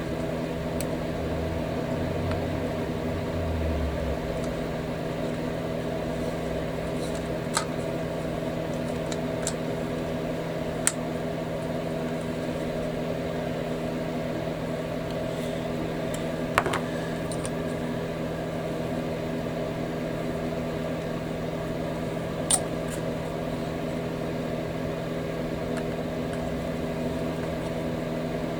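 A steady low electrical hum throughout, with a few small sharp clicks and taps from plastic model-kit parts and tools being handled.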